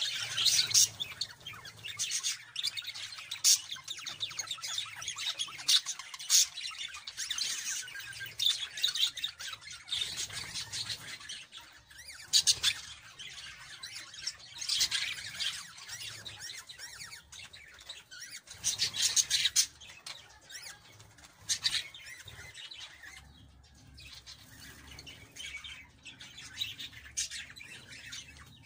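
Budgerigars chirping and chattering: many short, high chirps in quick bursts, thinning out over the last third.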